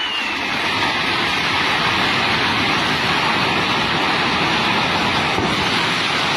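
Steady, loud rush of floodwater from a swollen river in spate.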